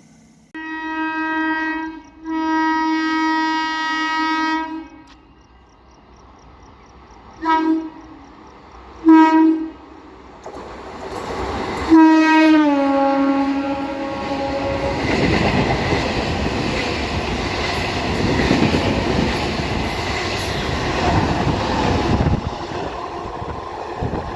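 Electric multiple-unit local train's horn: two long blasts, two short toots, then a blast that falls in pitch as the train passes, followed by the loud rush and wheel clatter of the train going by at speed.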